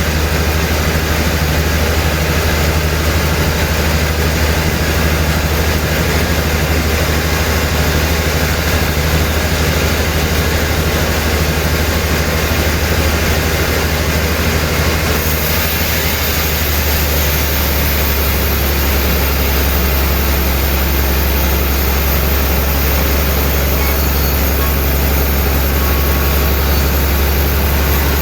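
Sawmill machinery running steadily: a loud, heavy low drone under an even hiss, with no let-up.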